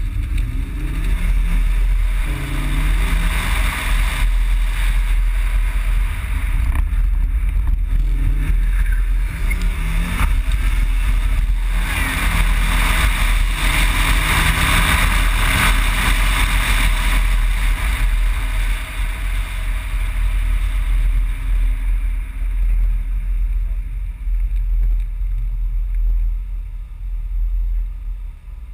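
Audi quattro's engine pulling up through the revs again and again as the car accelerates through the gears, heard under heavy wind buffeting on a microphone mounted outside the car. Near the end the engine and wind noise ease off.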